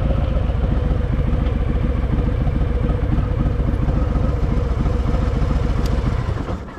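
Harley-Davidson Fat Boy's V-twin engine running with a steady low rumble, its sound falling away shortly before the end.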